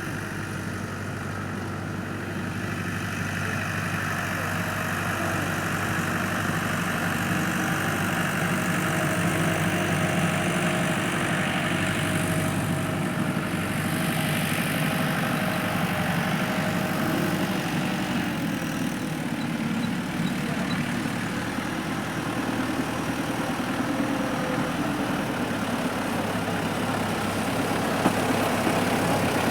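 Tractor engine running steadily at idle, getting a little louder over the first several seconds.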